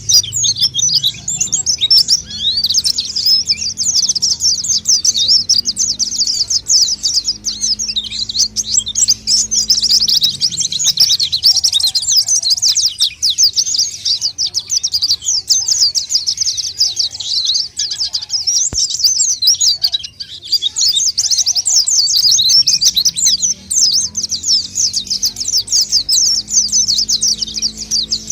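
White-eyes (pleci) singing a continuous stream of rapid, high-pitched twittering chirps, a lure-call recording of the birds in full song.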